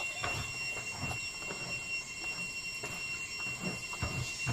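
Close-up chewing and mouth sounds of a man eating rice by hand, a few soft wet smacks at irregular moments, over a steady thin high-pitched tone.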